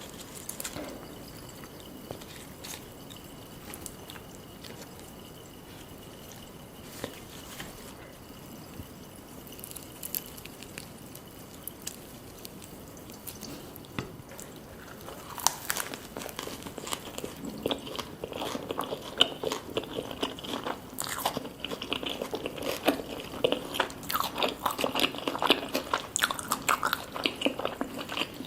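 Close-miked eating sounds: a person biting and chewing food with crunching. Sparse small clicks for about the first half, then dense, crunchy chewing from about halfway on.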